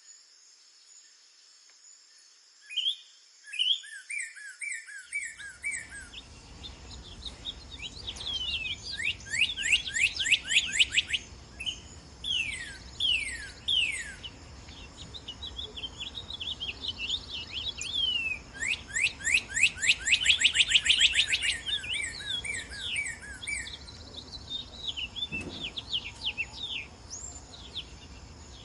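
Northern cardinal singing: clear whistled notes that slide down in pitch, given singly and in fast runs of many notes, loudest about a third of the way in and again near two-thirds. A steady high buzz runs behind the song.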